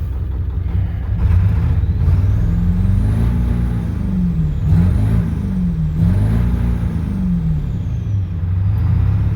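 Warmed-up tow truck engine running, then revved three times in a row: the pitch rises and falls with each rev before settling back to idle near the end.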